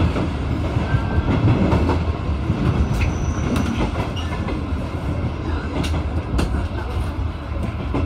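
JR 201 series electric train running slowly into a station over points and rail joints, heard from the cab: a steady low rumble with irregular clacks of the wheels over the joints.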